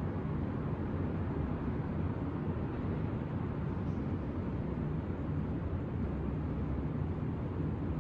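Steady low rumble of distant city traffic, with a faint engine hum in it and no separate events standing out.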